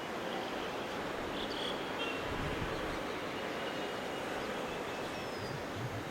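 Steady, even rush of distant jet-engine noise from an airliner, with a few faint high chirps over it.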